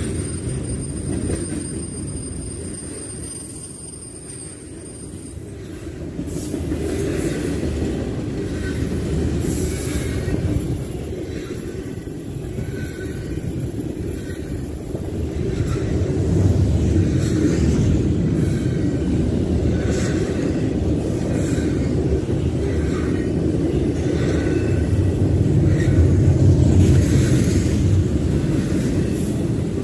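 Double-stack container freight train rolling by at close range: a steady rumble and clatter of steel wheels on rail with occasional knocks. A thin, high-pitched wheel squeal sounds over the first five seconds or so.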